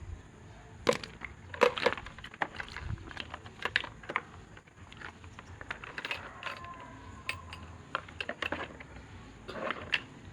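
Irregular clicks and crackles of small parts and wires being handled during work on an electric fan motor.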